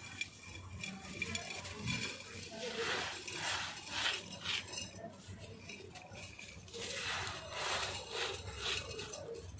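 Dry clay pot pieces crunching and crumbling as they are crushed, with two louder crackly bouts, about three seconds in and again about seven seconds in.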